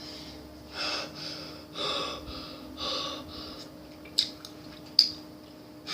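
A person breathing audibly close to the microphone, three breaths about a second apart, followed by two sharp clicks a little under a second apart near the end.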